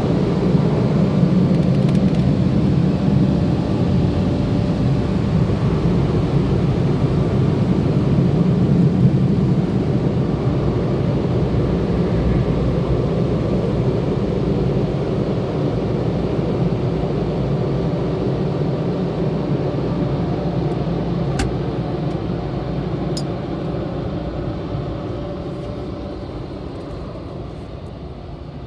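Steady rumble of tunnel car wash machinery heard from inside a car, fading away near the end, with two sharp clicks shortly before it dies down.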